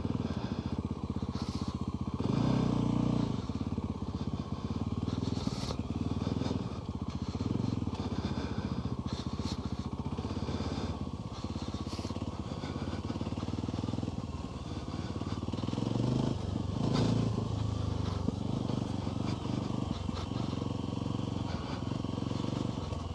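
Off-road motorbike engine running as the bike is ridden, the engine note swelling louder with throttle about two and a half seconds in and again around sixteen to seventeen seconds in.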